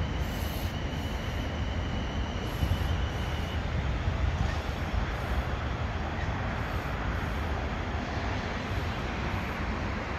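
South Western Railway Siemens Desiro electric multiple unit running past, a steady low rumble of wheels on rail. A faint high whine sounds over it for the first three and a half seconds or so.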